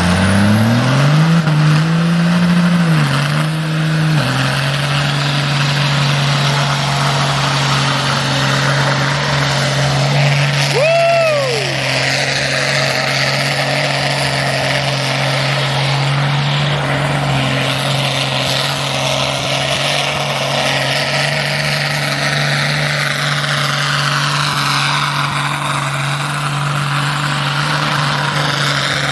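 Car engine running loud and steady after rising in revs over the first few seconds. A short falling tone sounds once about a third of the way through.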